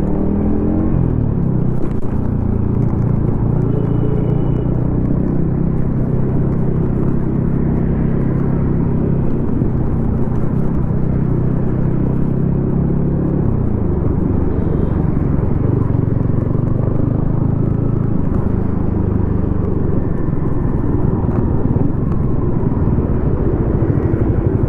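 Yamaha XSR155's single-cylinder engine running through a DIY exhaust while riding: it revs up at the start, holds a steady pitch for about thirteen seconds, then drops to lower revs and runs on.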